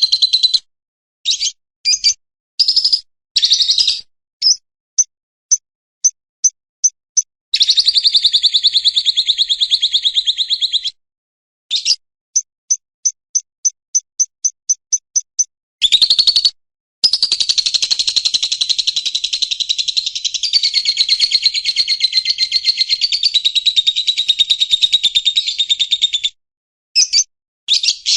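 White-rumped shama (murai hutan) singing. Its phrases come in bursts with short pauses between them: runs of quick repeated whistled notes, a trill about three seconds long near the middle, and a much longer trill in the second half.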